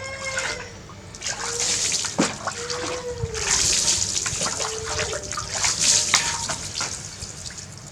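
Water splashing and pouring in bursts while a baby monkey is bathed, starting about a second in and easing off near the end, with a few sharp knocks.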